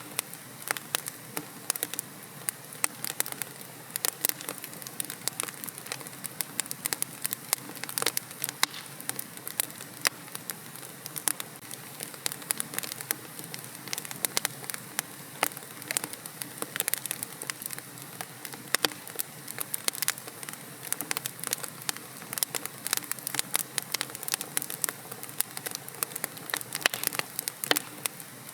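Wood fire crackling in a fireplace: many irregular sharp pops and snaps over a steady soft hiss.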